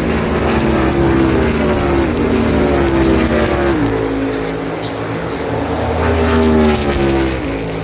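NASCAR Cup cars' V8 engines racing past through a turn. Several engines overlap, their pitch sliding down and dropping sharply about four seconds in and again near the end.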